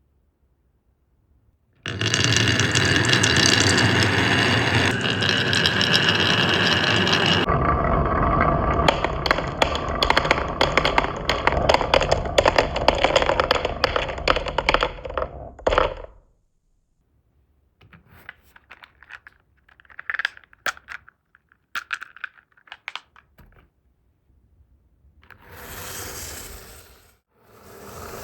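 Glass marbles rolling and rattling down a wooden HABA marble run: a dense, loud clatter that lasts about fourteen seconds and changes character partway through, then scattered clicks and knocks, and two short swells of rolling near the end.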